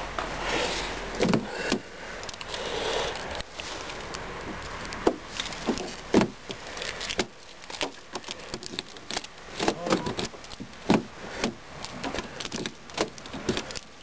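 Irregular clicks and knocks from a car's exterior door handle being pulled on a door that won't open, with a rustling haze in the first few seconds.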